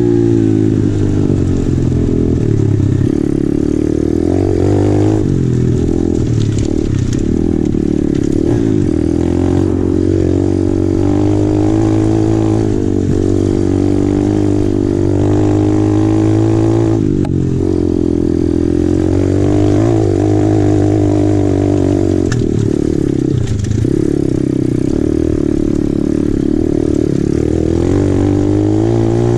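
2020 Apollo RFZ 125cc pit bike's single-cylinder four-stroke engine running under way on a dirt trail, its pitch rising and falling as the throttle is opened and closed, with sharp drops in revs about 5, 17 and 23 seconds in.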